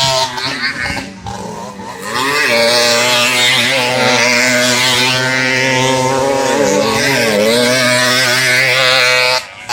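50cc motocross bikes' two-stroke engines running at high revs. The note eases off from about a second in, picks back up at about two seconds, dips briefly again near seven seconds, and cuts off abruptly just before the end.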